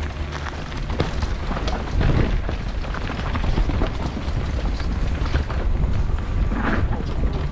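Wind rushing over the microphone with a low rumble and scattered clattering knocks from a mountain bike riding a dirt trail.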